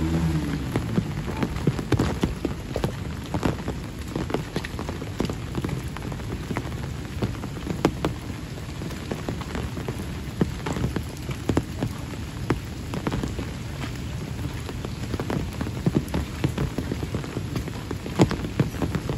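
Steady rain falling on a wet road and its surroundings, a continuous hiss with many sharp, scattered drop impacts close by.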